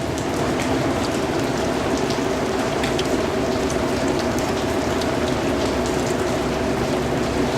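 Steady rain falling, with scattered sharp drop ticks over an even hiss and a steady low hum underneath.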